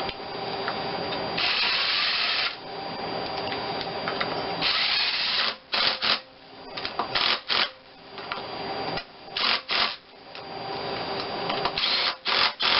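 Power drill driving in the water pump pulley bolts. It runs in two longer bursts, then a series of short trigger blips as each bolt is snugged down.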